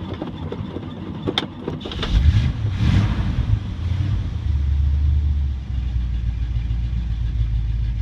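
1969 GMC dump truck's carbureted engine cranking in 14-degree cold, catching about two seconds in with a surge of revs, then running low and unevenly with a brief sag: a very cold engine struggling to keep running.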